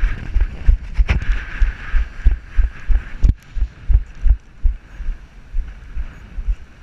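Rapid low thumping, about three a second, from the moving chase vehicle, with a steady hiss that fades about three seconds in and two sharp clicks.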